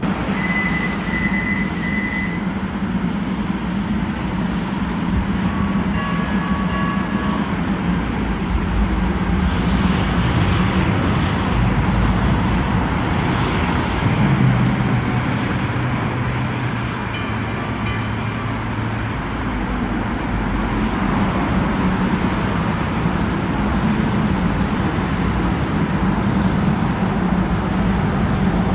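Los Angeles Metro light rail train pulling into the station, with steady traffic noise.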